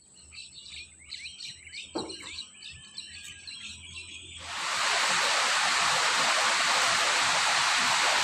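Small birds chirping, with a single thump about two seconds in; about halfway through, a steady rush of running water starts and drowns them out.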